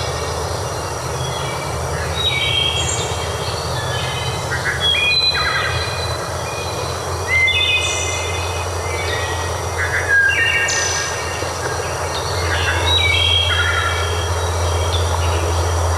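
Songbirds singing in many short, quick whistled phrases, one after another, over a steady rushing background noise and a low hum that grows louder near the end.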